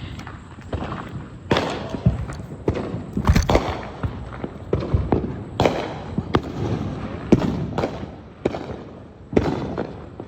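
Fireworks going off: a string of irregular bangs and pops, a dozen or so, some trailing a short crackle.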